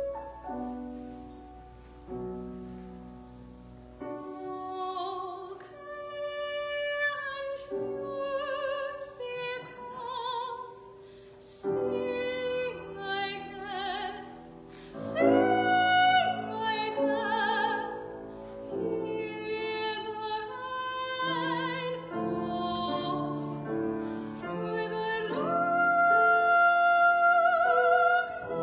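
Classical art song for voice and piano: the piano plays alone for the first few seconds, then a trained singer enters with vibrato over the accompaniment, holding long notes near the end.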